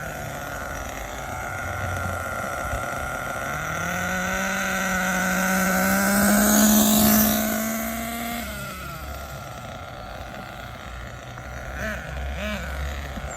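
Hong Nor Force 32 (5.2 cc) nitro engine in an HPI Trophy Truggy revving at about half throttle, its pitch rising over a few seconds and loudest about six to seven seconds in, then dropping back to idle as the truggy brakes. This is a break-in run of a new engine.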